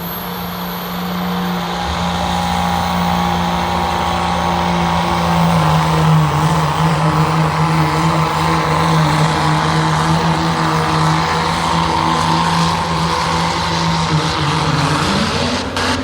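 Second-generation Cummins 5.9-litre inline-six turbodiesel in a pickup, held at high revs under heavy load during a truck pull, with a loud, steady note. About 15 seconds in the steady note breaks and drops away as the engine comes off the load.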